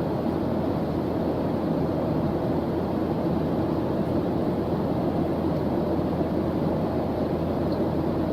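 Steady white-noise background track: an even, low rushing hiss that never changes or breaks.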